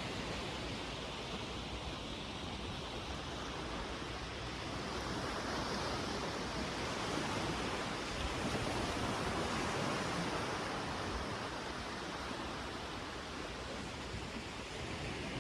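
Sea surf washing onto a sandy beach: a steady rush of waves that swells a little louder around the middle.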